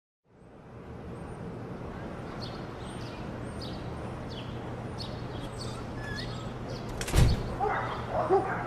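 Birds chirping over steady outdoor background noise with a low hum, then a heavy thump about seven seconds in, followed by a few short gliding tones.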